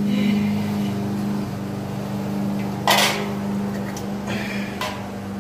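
Metal dishwasher door parts being handled: a sharp clank about three seconds in and a shorter knock near the end, over a steady low hum.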